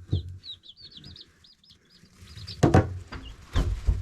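Baby chicks peeping: a busy run of short, high chirps. Two louder knocks or rustles come near the end, about a second apart.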